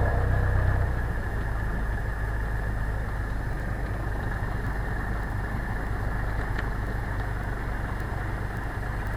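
Cessna 172's piston engine running steadily at low power, heard inside the cabin, before takeoff power is set; its steady hum eases slightly about a second in.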